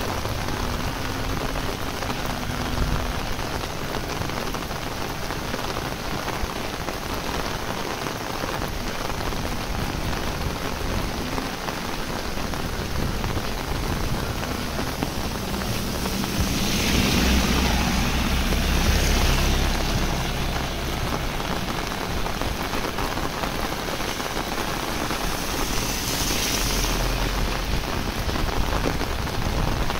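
Heavy rain falling steadily on a road and vegetation, an even hiss of drops. Midway the hiss swells louder with a low rumble for a few seconds, and swells again briefly near the end.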